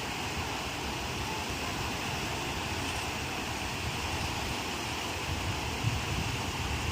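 Ocean surf breaking in a steady, continuous rush, with wind buffeting the microphone as a low, uneven rumble.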